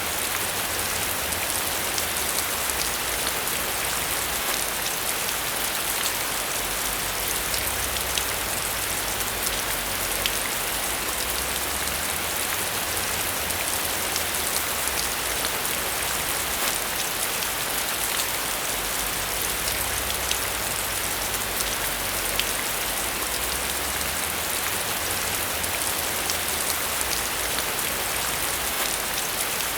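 Steady rain falling: an even hiss dotted with many small, sharp drop ticks, over a faint low rumble that swells and fades.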